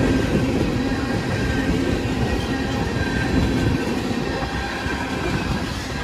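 Freight train rolling past at close range: a steady rumble of wheels on rail, with a faint steady high-pitched ringing over it.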